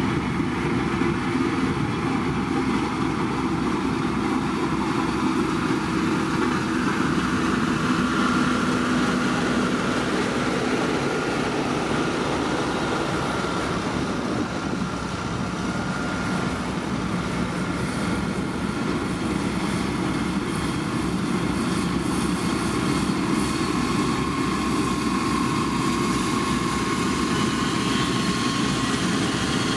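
Heavy diesel engine of a motor grader running steadily, its pitch drifting a little.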